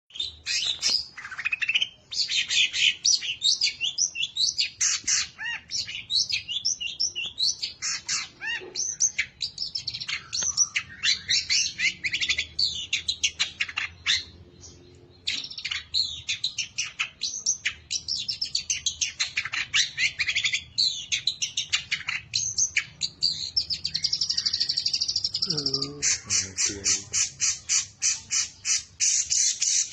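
Long-tailed shrike (cendet) singing a dense, fast-changing song of high chirps, trills and mimicked calls, with a short pause about halfway and a rapid, evenly spaced rattle over the last few seconds.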